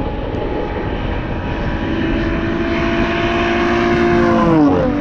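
Racing car engine running hard at high, steady revs, growing louder as it approaches, then its note drops sharply as it goes past near the end.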